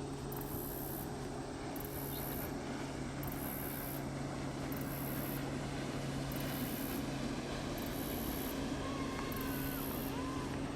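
A steady low engine hum, with a high-pitched insect trilling in pulses about once a second and a few faint bird whistles near the end.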